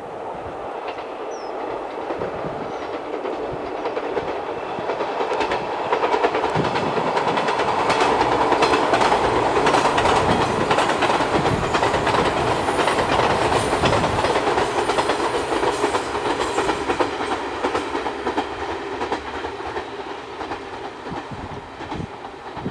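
A JR 185-series electric multiple unit passes on the line, wheels clicking over the rail joints. It grows louder as it comes by, peaks about halfway through, then fades as it moves away.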